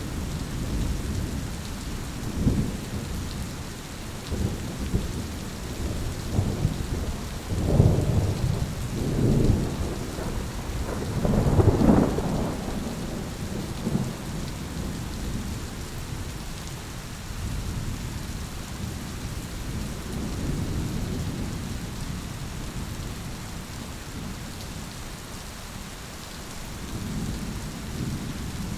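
Thunderstorm: steady rain falling, with rolling thunder that builds through the first half and is loudest about eight and twelve seconds in, then fades back to rain and a distant low rumble.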